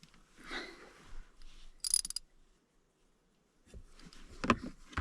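8 mm ratcheting wrench working a stubborn blower-motor screw under a truck dashboard: a short, high-pitched burst of ratchet clicking about two seconds in, then a cluster of sharp metal knocks and clicks near the end.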